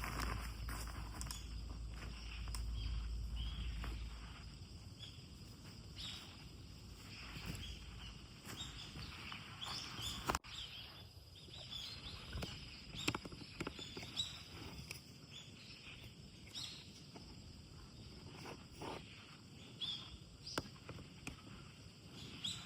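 Forest ambience: scattered short bird chirps with intermittent knocks and rustles of footsteps or handled gear. A low wind rumble on the microphone dies away about four seconds in.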